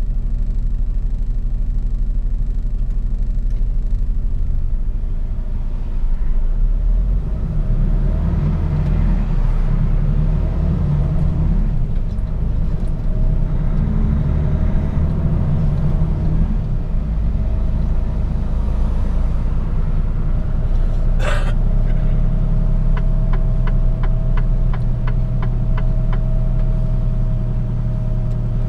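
Mercedes-Benz Actros truck's diesel engine running, heard from inside the cab with a steady low rumble. About two-thirds of the way through there is a short sharp hiss. Then comes a run of quick, even ticks, about two or three a second, lasting some four seconds.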